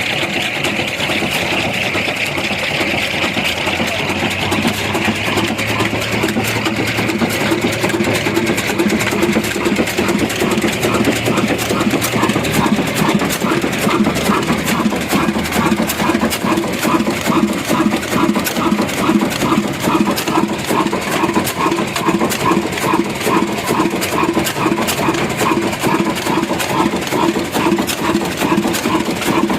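Heavy diesel engine running steadily with an even, rhythmic beat, which becomes more distinct partway through.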